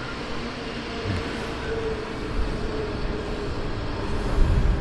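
Train running on the line, a steady rush of noise with a faint whine; a low rumble grows stronger near the end.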